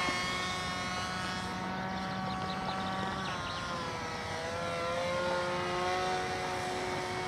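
RC model airplane's motor and propeller droning steadily as it flies past. The pitch sinks gently as it moves away, dips lowest around the middle, then rises a little.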